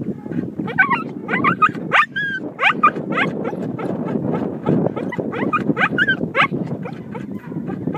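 A dog whining and yipping in a rapid string of short, high-pitched cries, over a steady low rushing noise.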